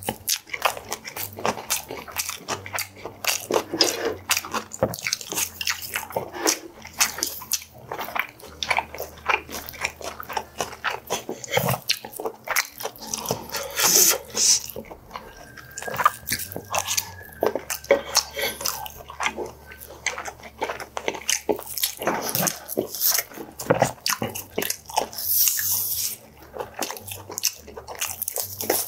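A person chewing close to the microphone, with rapid, irregular wet crunches and lip smacks as he eats napa cabbage kimchi and boiled pork.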